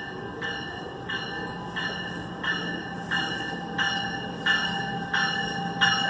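An NJ Transit train's warning bell ringing steadily, about three strokes every two seconds, growing louder as the train comes in, over the low rumble of the train.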